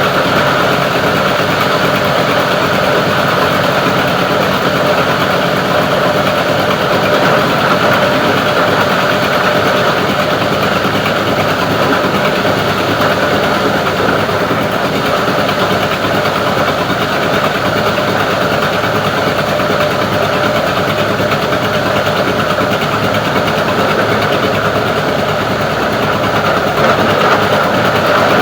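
Plastic recycling grinding machine running steadily with a constant mechanical drone.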